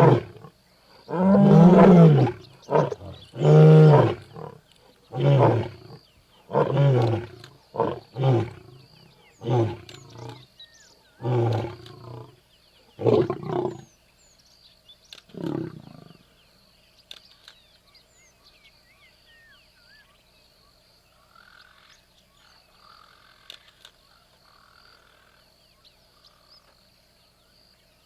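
A lion roaring: two long full roars, then a series of shorter grunting roars about a second apart that grow shorter and quieter and die away after about sixteen seconds. Faint chirping follows.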